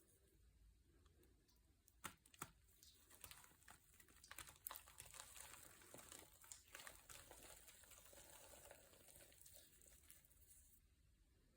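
Faint crinkling and rustling, like something thin being handled and crumpled, with a couple of sharp clicks about two seconds in; it is busiest in the middle and fades out near the end.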